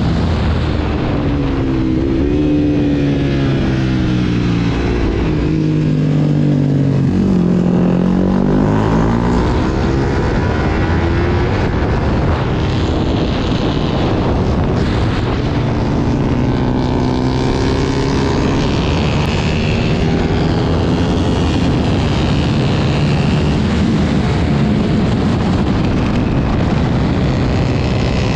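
Sport motorcycle engine running hard on a track, heard from on board, its pitch rising and falling as the rider accelerates, shifts and rolls off for corners, over a steady rush of wind.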